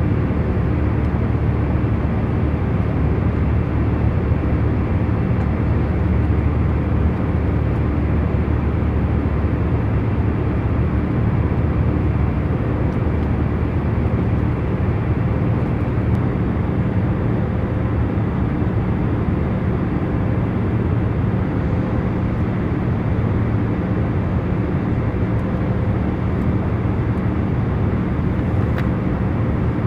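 Airliner cabin noise in cruising flight: a steady, even rush of engine and airflow noise, heaviest in the low range, with a faint constant hum.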